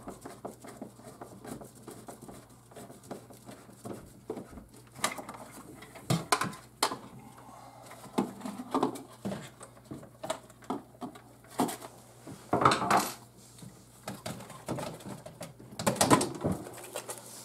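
Irregular clicks, knocks and clatter of a refrigerator's control module being unclipped and taken down by hand, with louder clusters near the middle and toward the end.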